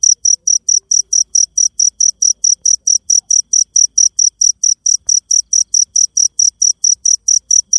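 Cricket chirping in a very even, high-pitched rhythm of about five chirps a second.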